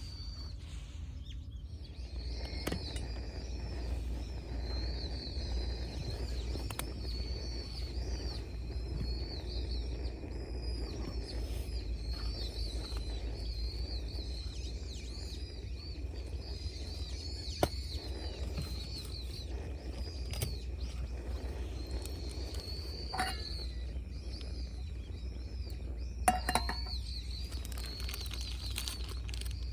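Birds chirping in a continuous high twittering chorus over a low steady rumble, with a few sharp clicks in the second half.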